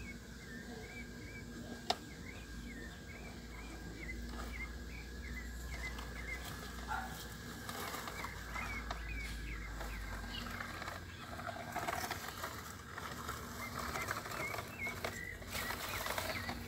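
Small birds chirping in short repeated calls, several a second, with a sharp click about two seconds in. In the second half come rustling and scraping as plastic toy trucks are pushed about in the dirt.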